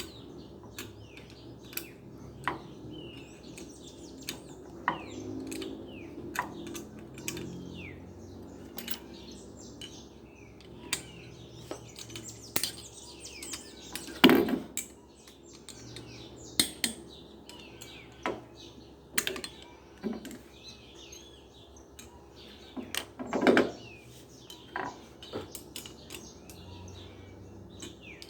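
Metal parts and tools clinking and clacking irregularly while a washing machine motor is being put together, with two heavier knocks about 14 and 23 seconds in. Birds chirp faintly in the background.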